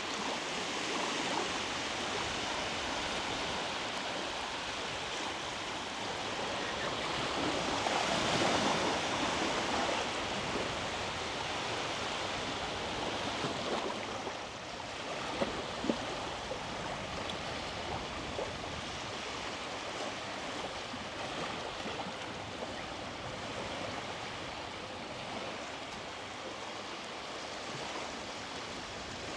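Sea waves breaking and washing up a beach, a steady rush with one wave swelling louder about a quarter of the way in. Two short taps stand out near the middle.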